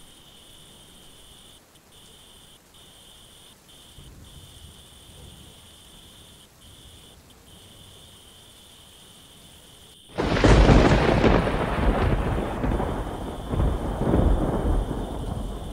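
Thunderstorm ambience: steady light rain with a faint high insect trill, then about ten seconds in a sudden loud thunderclap that goes on as a long rolling rumble, swelling and slowly fading.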